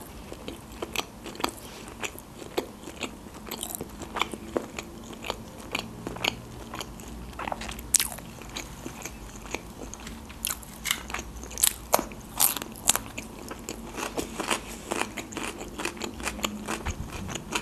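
Close-miked chewing of a sushi roll: a dense, irregular run of wet mouth clicks and crunches, with a few louder ones around eight and twelve seconds in.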